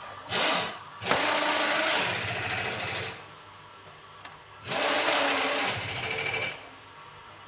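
A small motorized hand tool, such as a cordless screwdriver or drill, run in three bursts with a rapid buzzing rattle: a short one, then one of about two seconds, then another of nearly two seconds.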